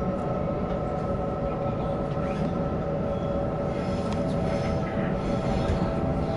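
Sydney Trains electric train running between stations, heard from inside the carriage: a steady rumble of wheels on track with a steady whine.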